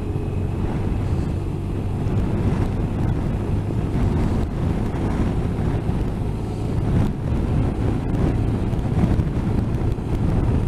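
Wind buffeting the microphone of a moving motorcycle, a dense rumble, with the bike's engine hum showing as a steady low tone near the start.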